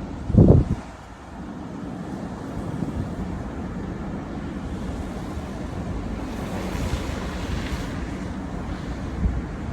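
Car driving on a snowy road heard from inside the cabin: a steady low rumble of tyres and engine, with one short low thump about half a second in and a faint hiss swelling for a couple of seconds around the middle.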